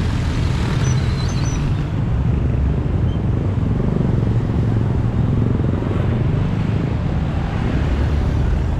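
Steady low rumble of road traffic or a running vehicle, with a few faint high chirps about a second in.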